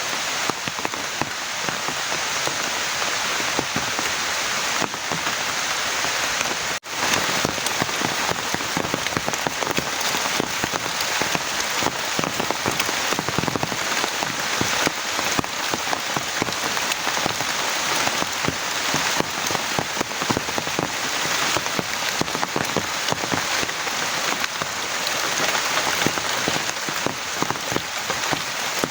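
Heavy rain falling steadily, a dense wash of many small drop impacts. The sound drops out for an instant about seven seconds in.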